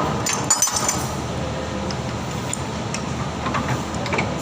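A short cluster of sharp metallic clinks with a brief ringing, about half a second in, over steady background noise.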